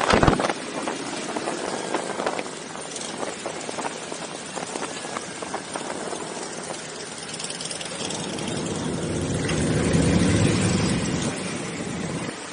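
Motorcycle engines running in a group ride. There is a brief loud low burst right at the start, and a deeper engine rumble swells and fades about nine to eleven seconds in.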